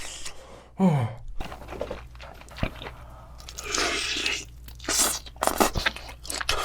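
Close-miked biting and chewing of crispy fried chicken: irregular loud crunches of the batter, with a short falling vocal sound from the eater about a second in.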